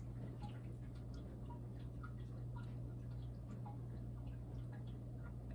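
Faint, irregular clicks of a computer mouse and keyboard being worked, over a steady low electrical hum.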